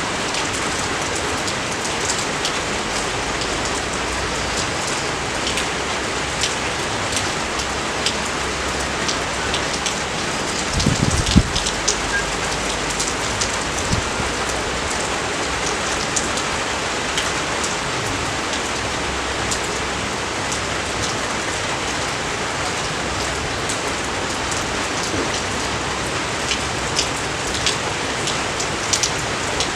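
Steady rain falling, with many sharp close drop hits over the even hiss, and one brief low thump about eleven seconds in.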